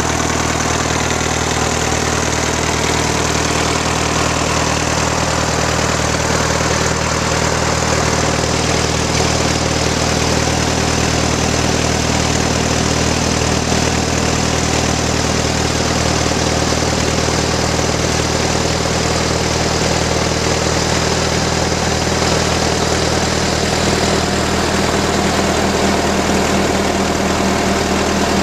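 1938 Case C tractor's four-cylinder engine idling steadily at an even speed.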